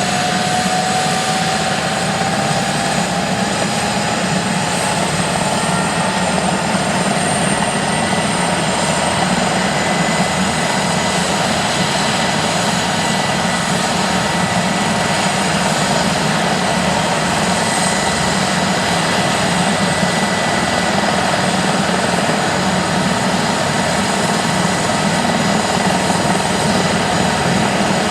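Airbus H145 helicopter's twin turboshaft engines and rotor running during start-up. A turbine whine rises over the first several seconds and then holds steady over the even rush of the rotor and engines.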